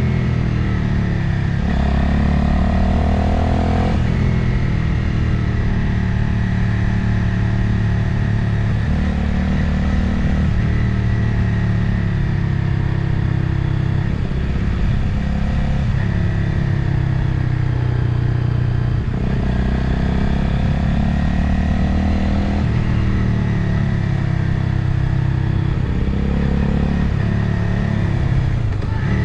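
Motorcycle engine running under way with wind rushing past, the engine note stepping up and down every few seconds as the bike rides along.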